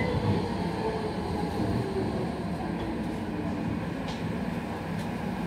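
Docklands Light Railway train running along the track, heard from inside the car: a steady rumble with a faint whine, and two light clicks about four and five seconds in.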